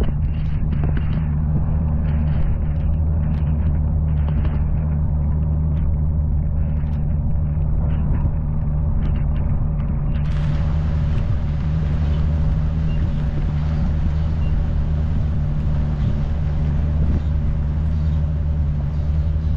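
An engine running steadily at constant speed, a low even drone with no change in pitch, with scattered light ticks over it.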